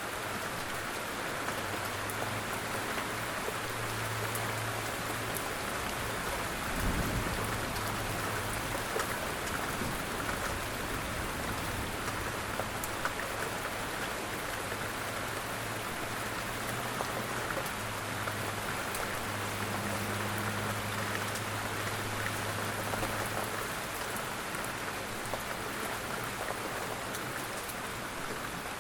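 Steady rain falling on a surface, with individual drops ticking through it. A brief low thump about seven seconds in, and a faint low hum that comes and goes.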